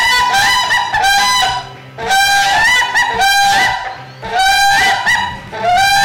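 A large bird's loud, trumpet-like honking calls, several quick notes in each burst, the bursts repeating about every two seconds.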